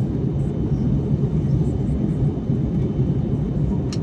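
Steady low cabin rumble of an Airbus A321neo in flight: engine and airflow noise heard from inside the passenger cabin. A single short click comes near the end.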